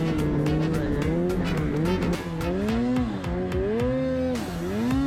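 Snowmobile engine running steadily, then revving up and down over and over, the pitch rising and falling about once a second as the throttle is worked.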